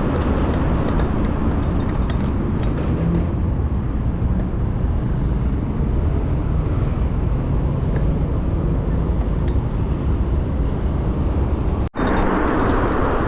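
Steady rush of wind on the microphone and road traffic noise while riding an electric bicycle through city streets, with a brief dropout near the end.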